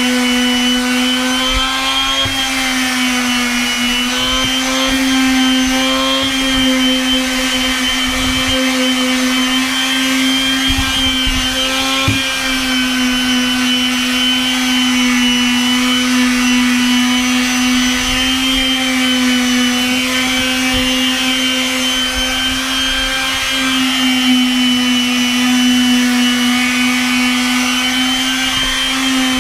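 Makita random orbit palm sander running continuously on deck boards, its motor whine holding a nearly steady pitch with slight wavers as pressure on the pad changes.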